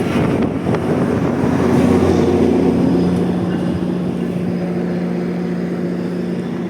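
GO Transit MP40 diesel locomotive running at a standstill at the platform: a steady low engine hum with a held tone.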